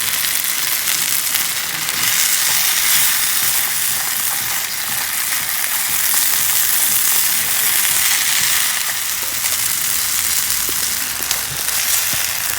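Cubed beef skirt steak in garlic sauce frying over an open fire in an oiled pan, a loud steady sizzle with a few small pops near the end.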